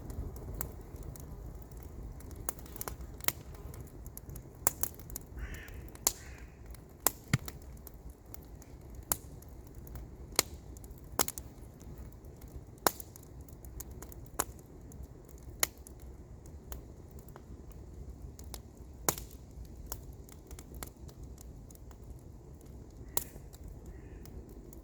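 Wood campfire crackling, with sharp irregular pops every second or so over a low steady rumble.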